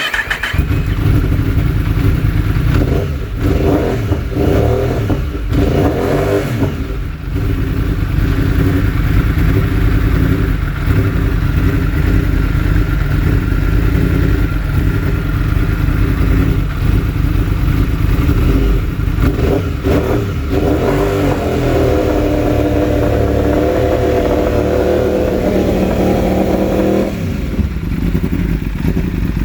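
2016 Yamaha R1's crossplane inline-four engine running and revving, its sound dipping briefly several times and shifting in pitch near the end. The owner reports that the engine misfires when the riding mode is changed.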